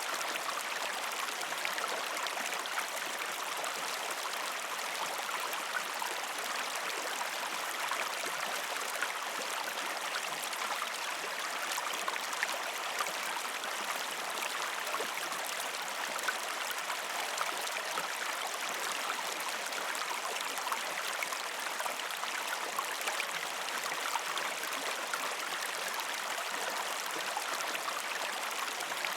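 River or stream water flowing over rocks: a steady rushing wash dotted with small splashes and bubbling.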